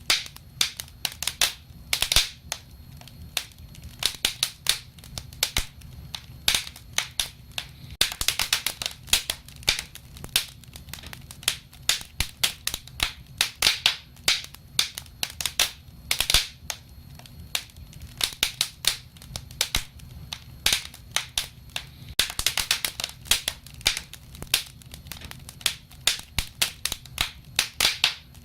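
Wood fire crackling: irregular sharp pops and snaps, thicker in flurries at times, over a faint low steady background.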